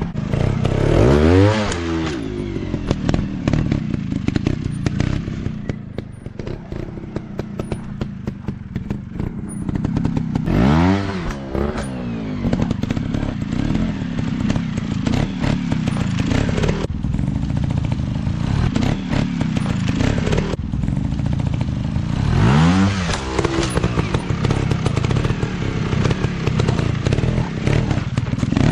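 Motocross bike engines running with three steep rising revs about ten seconds apart, with a rapid rattling crackle between them.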